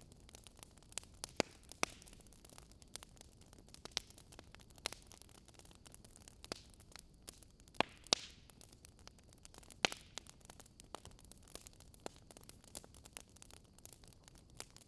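Wood fire crackling: irregular sharp pops and snaps over a faint steady hiss, with a few louder pops.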